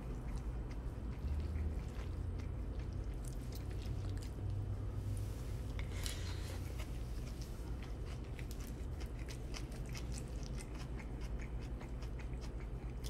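Chewing a mouthful of a steak and rice bowl close to the microphone, with scattered small clicks. A nylon jacket sleeve rustles briefly about six seconds in.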